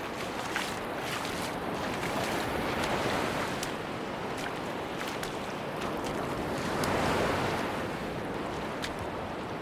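Sea waves washing onto a beach, the surf swelling twice, with faint scattered ticks over the wash.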